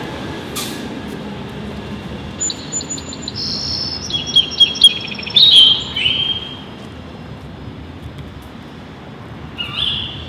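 Bird chirps and whistled calls: a quick run of short high chirps and gliding notes from about two and a half to six and a half seconds in, with one more chirp near the end, over steady background noise.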